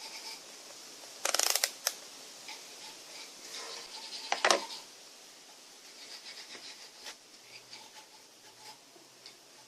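Mechanical handling noises: a short fast rattle about a second in, a sharp click about four and a half seconds in, and a few light clicks after it. The motor is not running.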